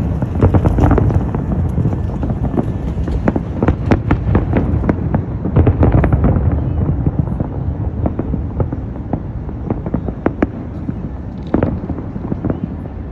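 Aerial fireworks display: a dense run of booms and sharp cracks over a steady low rumble, the bursts growing sparser in the second half.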